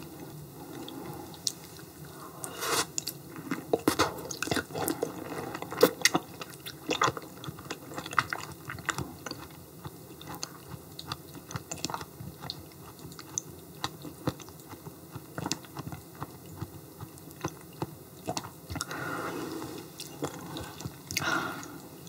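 Close-miked chewing of yellow stingray liver: wet, sticky mouth sounds with many small irregular clicks and smacks.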